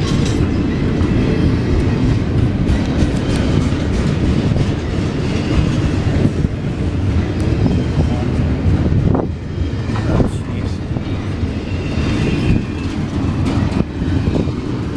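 Train cars rolling past close by: a steady heavy rumble of wheels on rail, with a couple of sharper clacks about two-thirds of the way through.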